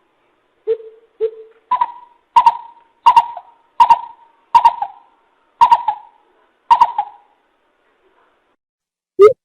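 A coucal calling: a run of about ten deep hoots a little under a second apart, the first two lower in pitch, ending about seven seconds in.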